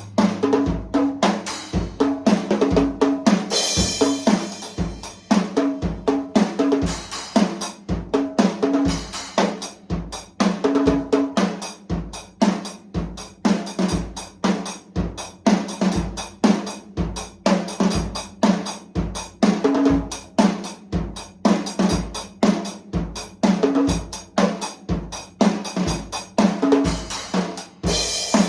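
A $50 drum kit being played in a steady beat: bass drum, snare and toms, with cymbal crashes about three and a half seconds in and again at the end.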